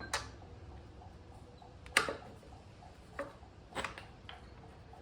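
About five sharp metal clinks and knocks, the loudest about two seconds in. They come from thread-locked bolts and hand tools being handled while the bolts are fitted back into the ATV's rear axle and brake caliper parts.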